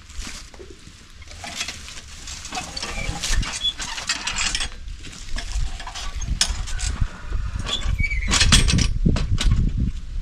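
Bull-drawn plough at work in the field: irregular knocks and rattles from the plough and harness, growing louder toward the end.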